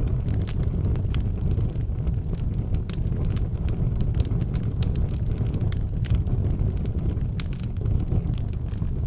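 Wood fire burning in an outdoor fireplace: frequent sharp crackles and pops, several a second, over a steady low rumble.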